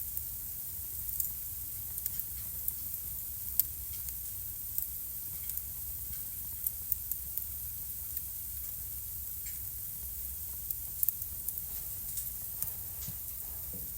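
Wood fire crackling in a home fireplace: irregular sharp pops and snaps over a steady hiss and a low rumble.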